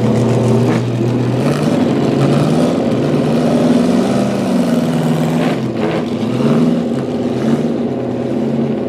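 Performance car engine holding a steady note, then revving up and down several times.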